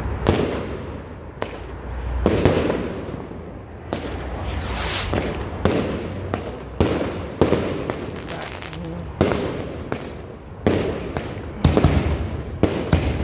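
Aerial fireworks going off in a quick series of sharp bangs, about one a second, each followed by a trailing echo.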